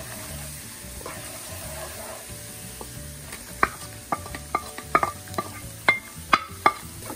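Minced garlic sizzling in hot oil in a frying pan, stirred with a wooden spatula. From about three and a half seconds in, a quick run of sharp taps and knocks as chopped onion is scraped off a plate into the pan.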